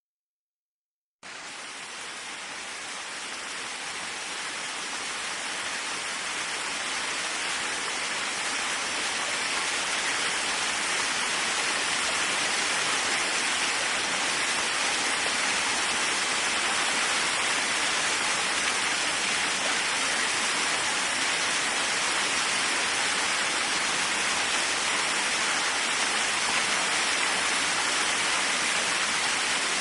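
Waterfall: a steady, hissing rush of falling water. It starts from silence about a second in, swells over the next several seconds, then holds steady.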